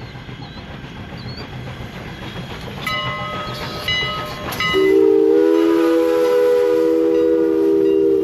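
Steam train rumbling along, with higher ringing tones from about three seconds in. About five seconds in, its whistle starts blowing loud and steady as a chord of several tones, held to the end.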